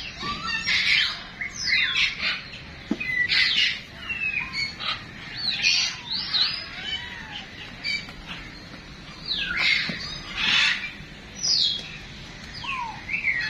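Birds squawking and chirping, a run of short shrill calls that sweep up and down in pitch and overlap one another.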